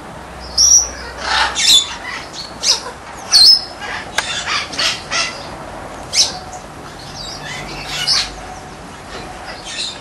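Birds calling: about ten short, sharp squawks and chirps at irregular intervals, over a faint steady background hiss.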